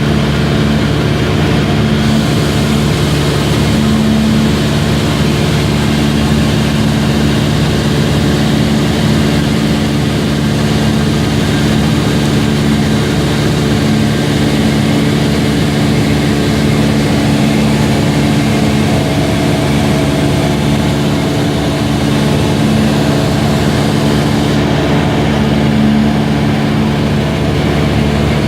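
Propeller aircraft engine running steadily in flight: a loud, constant drone that holds one pitch throughout.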